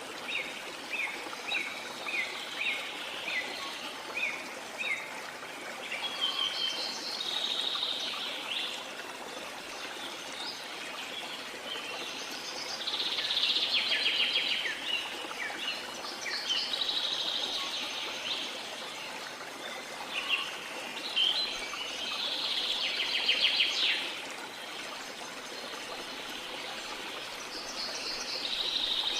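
Small songbirds singing over a steady wash of water. For the first five seconds there is a run of short down-slurred chirps, about two a second, followed by longer buzzy trilled phrases every few seconds.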